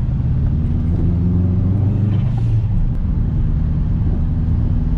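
Subaru WRX's turbocharged flat-four engine running steadily while the car is driven, heard from inside the cabin.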